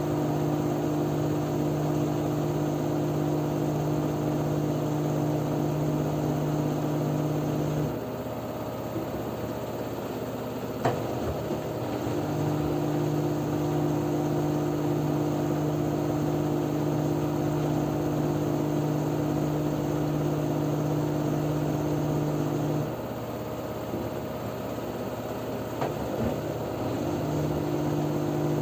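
LG F10B9LD front-loading washing machine in its spin cycle. Its steady hum drops out twice for a few seconds and comes back, while the running noise carries on underneath. A single click is heard partway through.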